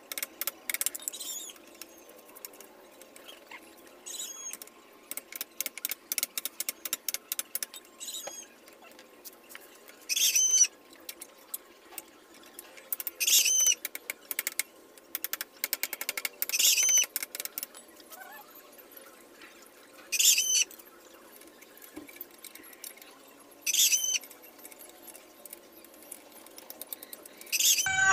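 A bird calling over and over: one short call about every three and a half seconds, from about ten seconds in. Before that, bursts of rapid clicking come from tightening the motorcycle's muffler mounting bolt.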